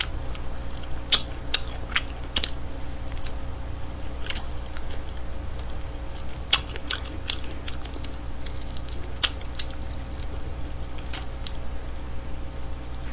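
Close-miked eating: a person chewing and gnawing smoked chicken off the bone, with irregular sharp mouth clicks and smacks, over a steady low hum.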